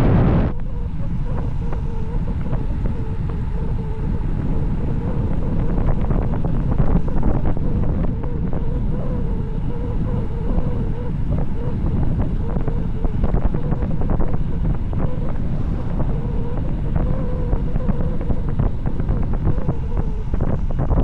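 Wind buffeting the microphone on a fast downhill bicycle ride: a steady low rush with a faint, slightly wavering whine underneath.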